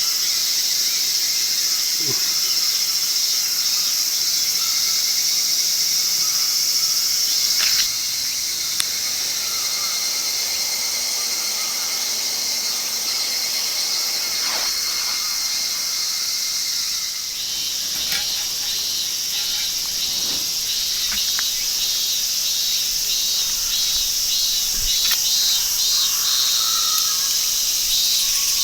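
A steady, high-pitched insect chorus. About two-thirds of the way through a pulsing chirp joins in, and a few faint knocks sound here and there.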